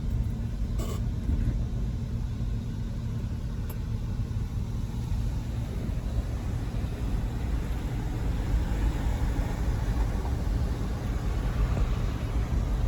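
Car driving along a road: steady low rumble of engine and tyre noise, with the tyre hiss growing louder in the second half and a faint click about a second in.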